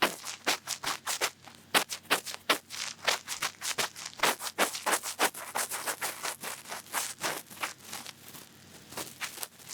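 Cotton bud scratching and rubbing in an ear, close-miked, in quick short strokes of several a second.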